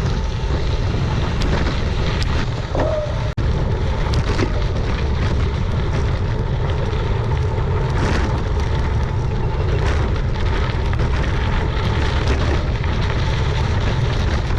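Steady low wind rumble buffeting the microphone of a gravel bike rider moving at speed, with scattered crackles from the tyres running over gravel.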